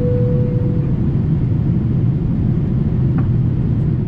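Steady rumble of engine and airflow inside the cabin of a Boeing 787-8 on approach. A single steady tone is heard for about the first second, and a brief click comes about three seconds in.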